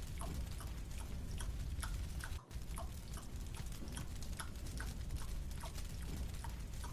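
Chewing on a marshmallow: soft regular clicks, about two a second, over a steady low rumble, with a brief dropout about two and a half seconds in.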